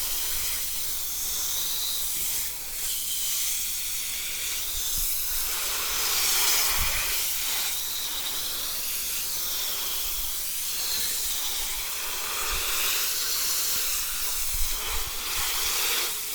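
Garden hose spraying water onto a fish-cleaning table to rinse it down, a steady hiss that swells and eases as the spray moves across the surface.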